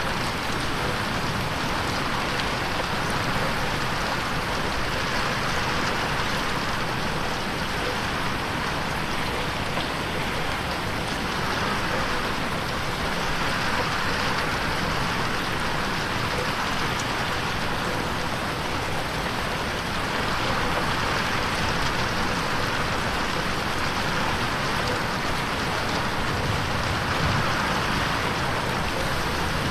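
Steady rain on a window pane: a dense, even hiss of drops with slow, gentle swells in loudness.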